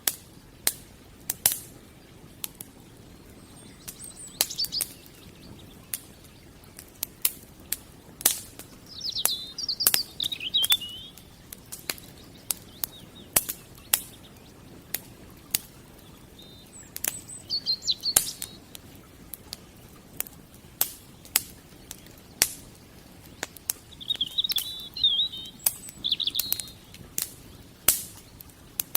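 Wood fire crackling with frequent sharp pops. A small bird chirps in short bursts four times, about four seconds in, around ten seconds, around eighteen seconds and near the end.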